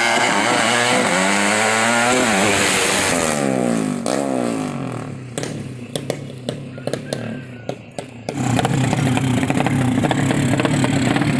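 Racing underbone motorcycle engines bored out to 200 cc, run hard at full throttle: the pitch climbs and drops with gear changes, then falls away about four seconds in. A quieter stretch with sharp clicks follows, and a loud steady engine sound returns about eight seconds in.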